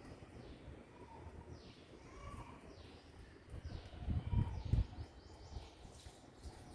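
Bird giving a series of short chirps that slide downward in pitch, one every half second to a second. A louder low rumble of bumps comes in about halfway through.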